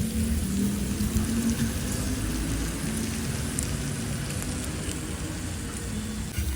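Pork sizzling on a mookata grill pan: a steady crackling hiss of fat frying, over a low steady hum.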